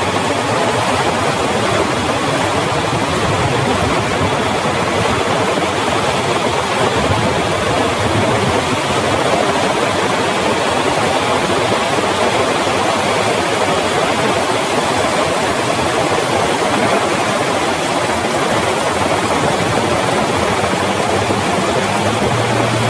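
Heavy rain pouring down in a steady, dense hiss. A low hum comes in near the end.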